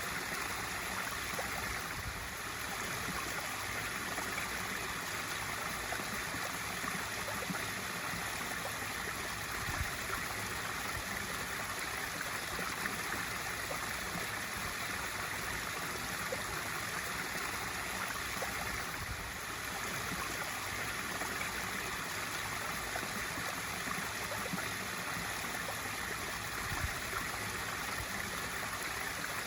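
Water from a swimming pool waterfall feature splashing steadily into the pool.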